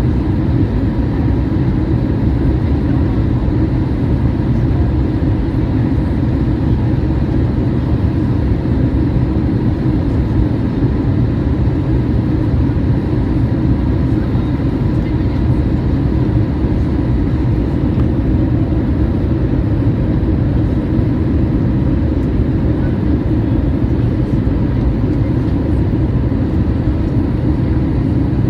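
Steady low drone of a Boeing 737-800's CFM56 engines and airflow, heard inside the passenger cabin.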